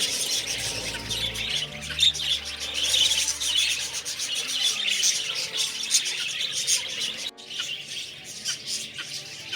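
Many birds chirping and calling at once in an aviary, a dense chorus of quick high chirps. It drops out for an instant about seven seconds in, then carries on a little more thinly.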